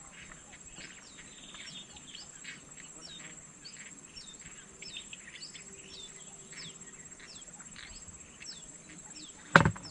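Birds chirping, a short falling chirp repeated about twice a second, over a steady high insect drone. A single sharp knock near the end.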